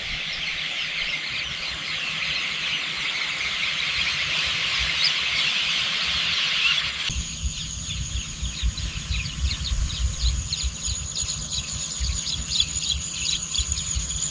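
Countryside chorus of many small birds chirping densely together. About halfway through it changes to a steady high insect drone with quick repeated chirps over a low rumble.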